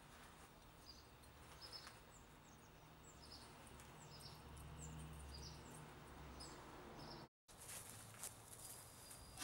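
Faint outdoor ambience: a small bird giving short, high chirps every second or so over a low rumble. The sound drops out briefly near the end and comes back as faint garden ambience with a few light clicks.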